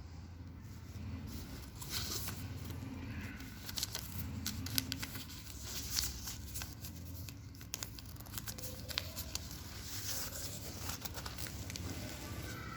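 Crinkling and rustling of material being handled, with scattered sharp clicks, over a steady low hum.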